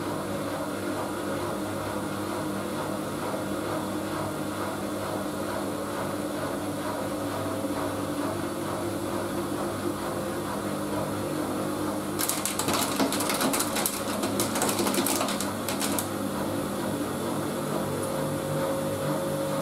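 Siemens Siwamat washing machine running, its motor giving a steady hum with several held tones. About two thirds of the way in, a few seconds of crackling, rattling noise rise over the hum.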